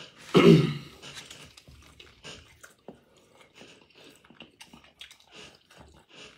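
A person chewing food close to the microphone, with soft, irregular mouth clicks and smacks. A short vocal sound comes about half a second in and is the loudest thing heard.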